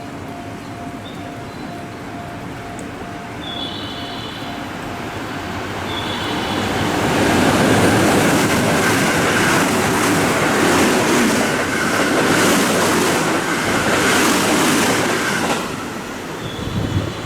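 Train running along the tracks through a station. It builds up over several seconds, stays loud for about eight seconds with a rhythmic beat from the wheels on the rails, then drops away near the end.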